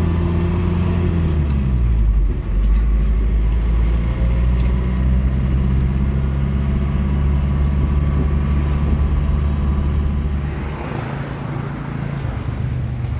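Motor vehicle engine running steadily, its pitch dropping about two seconds in and easing off somewhat near the end.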